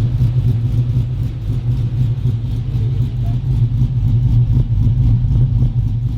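Motor vehicle engine running steadily: a deep, even rumble with a fast pulse to it.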